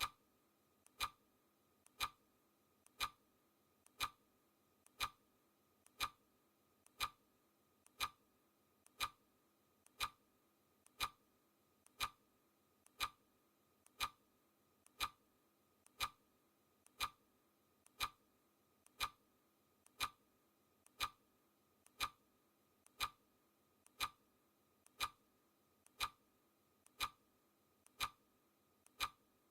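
Clock-ticking sound effect: crisp, steady ticks at one per second, marking the seconds of a countdown timer.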